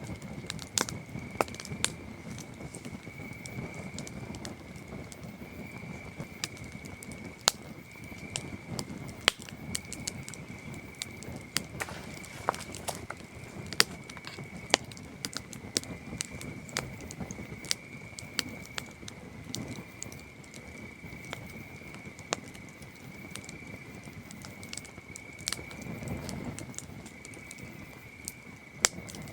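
Campfire wood crackling with sharp, irregular pops, over a steady high chirring of crickets and a low rumble from the fire.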